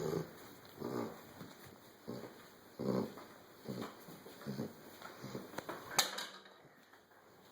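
A sleeping dog snoring in short, regular snorts a little faster than one a second, growing softer after about five seconds and dying away near the end. A single sharp click comes about six seconds in.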